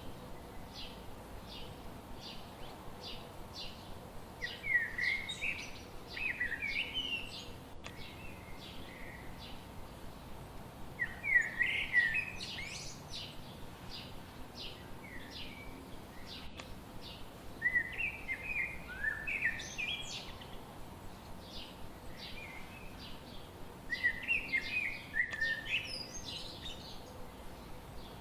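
Wild birds singing: a quick phrase of jumbled notes repeats about every six seconds, with a steady run of short, high chirps in between.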